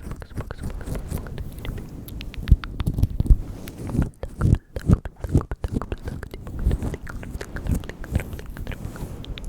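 ASMR mouth sounds close to the microphone: irregular wet clicks and smacks, with soft low thumps among them.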